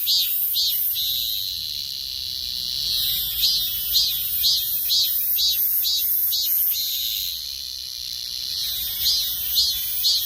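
A cicada singing: a run of pulsed calls, about two a second, that twice swells into a steady held buzz lasting about two seconds, once about a second in and again near the middle.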